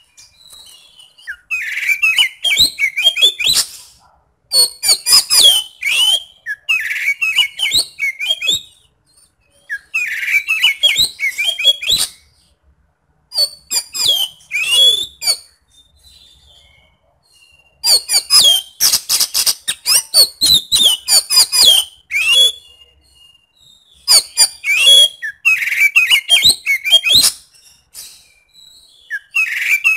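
Oriental magpie-robin (kacer) singing loud, rapid phrases full of harsh, rough notes, in bursts of two to four seconds broken by short pauses.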